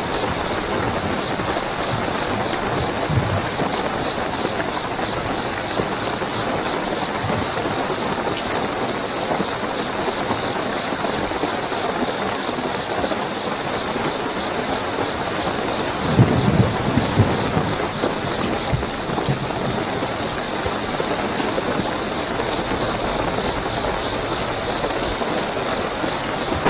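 Steady heavy rainfall with a continuous high-pitched cricket trill over it; about sixteen seconds in, a brief cluster of low thuds rises above the rain.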